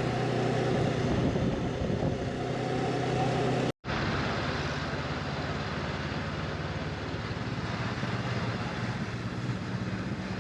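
Honda CB500X parallel-twin motorcycle engine running steadily while riding, with a steady hum and wind and road noise; the sound cuts out completely for a moment about four seconds in, then the same riding sound resumes.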